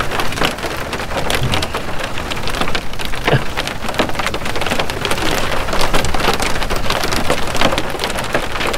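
Steady rain falling, a dense patter of many drops hitting close by, over a steady low rumble.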